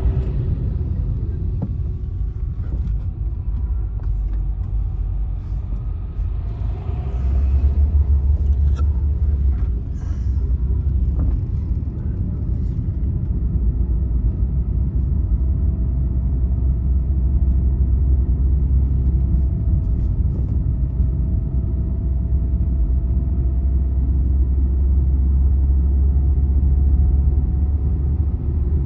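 Motor vehicle travelling on a highway: a steady low road-and-engine rumble, with a faint thin whine joining about halfway through.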